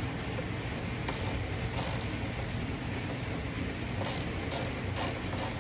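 Hand ratchet wrench clicking in repeated strokes as a fastener is turned: two separate strokes early, then a quicker run of about two to three strokes a second from about four seconds in.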